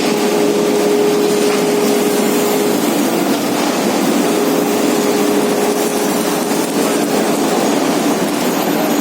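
Electric arc furnace running during start-up: a loud, steady rushing noise with a humming tone that drops out for about a second and a half near the middle and then returns.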